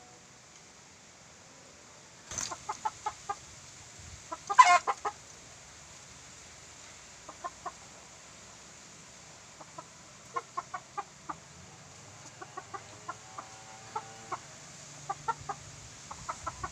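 Birds calling in short, clipped notes that come in quick clusters of several at a time. A sharp rustle comes about two seconds in, and a louder, noisier burst with calls follows about four to five seconds in.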